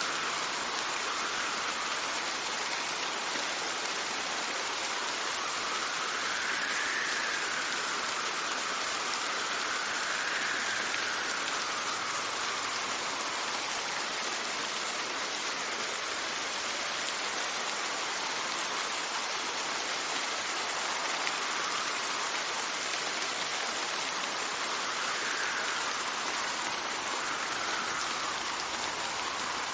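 Steady rain falling, with wind swelling and easing in slow gusts a few times.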